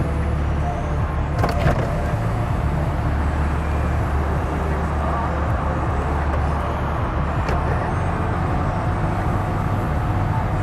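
Steady low hum of a 2018 GMC Yukon Denali's 6.2-litre V8 idling, heard from inside the cabin. A click comes about a second and a half in, followed by a faint steady whine.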